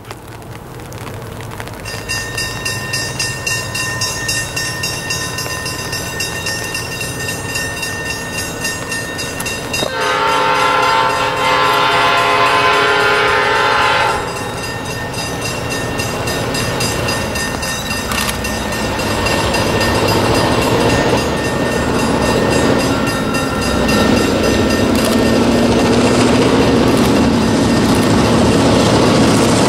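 Diesel locomotives 4204 and B65 approaching, their engines droning steadily and growing louder, with one multi-tone horn blast of about four seconds about a third of the way in. The train's rumble builds to its loudest near the end as it draws level.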